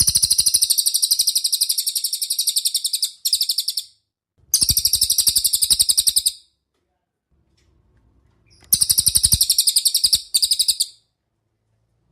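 A songbird giving fast, high trills of rapidly repeated notes, in three bursts of two to three seconds, each starting and stopping abruptly.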